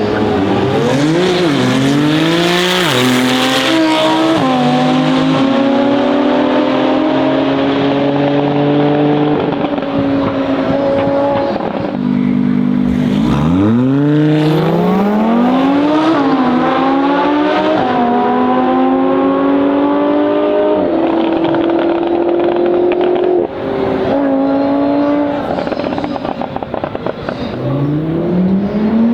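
Audi R8 V10 Performance's naturally aspirated 5.2-litre V10 through an aftermarket Capristo exhaust, accelerating hard twice, its pitch climbing through each gear and dropping at each upshift. Near the end comes a burst of exhaust crackles, then the engine revs up again.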